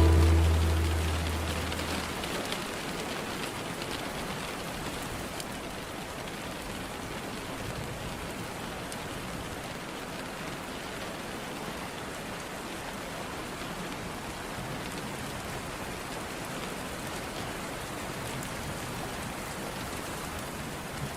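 Steady rain falling, a continuous even patter. The last notes of a song fade out over the first couple of seconds, leaving only the rain.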